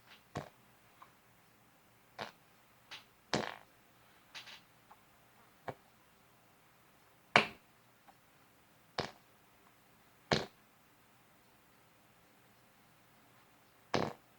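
Prank fart noises: about ten short, sharp blasts at irregular intervals, the loudest about halfway through, over a faint steady hum.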